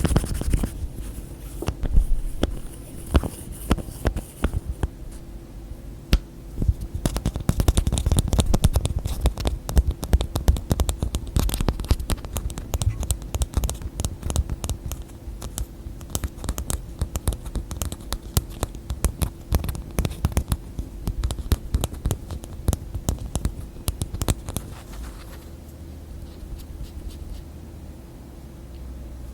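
Hands tapping and scratching quickly on objects and their lids, a dense run of crisp taps that thins out near the end, over a faint steady hum.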